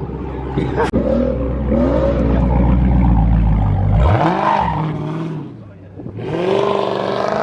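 Muscle-car V8 engines in a street race launch: a heavy low rumble at high load, then a rising sweep of engine pitch about four seconds in as a car accelerates hard. Another engine howls up near the end, with people shouting over it.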